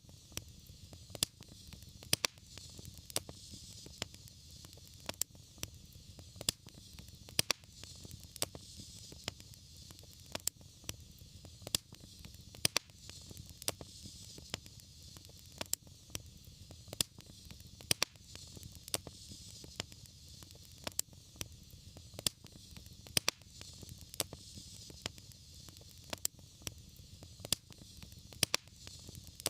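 Fireplace fire crackling: sharp pops, about one or two a second, over a steady hiss and low rumble of the flames.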